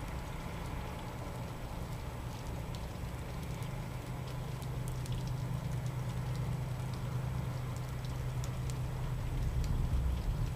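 Steady rain falling during a thunderstorm, with scattered drops ticking and a steady low hum underneath. A low rumble swells slightly near the end.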